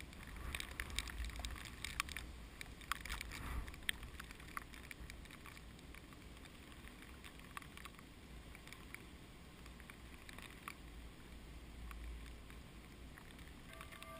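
Strong typhoon wind gusting against the microphone with a low rumble. A flurry of sharp crackles and clicks fills the first few seconds, then thins out, and the gusts swell again near the end.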